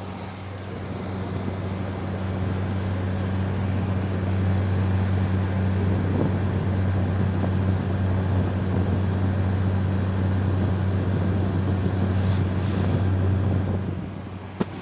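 2023 General Electric (Midea) 5,000 BTU window air conditioner running in cool mode: a steady low compressor hum under the noise of its fan. The compressor is running and the condenser coils are warming, a sign the unit is cooling properly. It grows louder a few seconds in and drops back near the end, with one short click.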